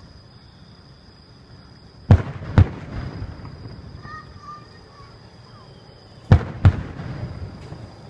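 Aerial fireworks bursting: two pairs of sharp bangs, each pair about half a second apart, the first about two seconds in and the second about six seconds in, each bang followed by a rumbling echo. A steady high-pitched tone runs underneath.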